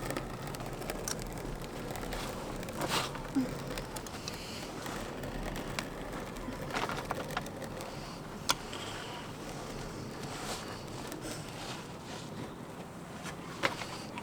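A few sharp, scattered taps and knocks from work on a felted shed roof, over a low steady hum.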